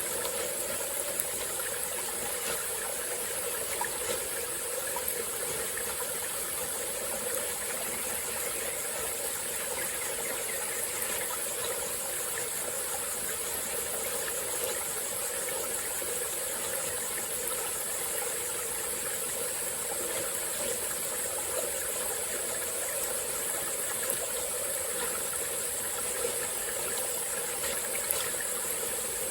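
Small tropical-forest stream flowing and babbling steadily, with a few small splashes. A constant high-pitched insect chorus rings over the water.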